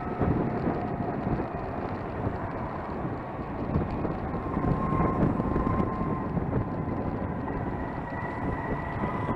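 Gogoro 2 electric scooter on the move: steady road and wind rumble with a thin electric-motor whine that dips, then rises a little in pitch near the end as the speed picks up.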